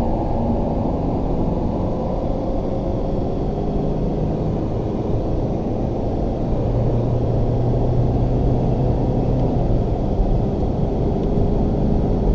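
Alfa Romeo car's engine and road noise heard from inside the cabin as it accelerates on open throttle along a straight, a low steady drone that grows a little louder about halfway through.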